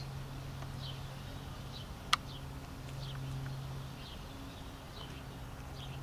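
A small songbird chirps over and over, a short high falling chirp roughly once a second, over a steady low hum. A single sharp click about two seconds in is the loudest sound.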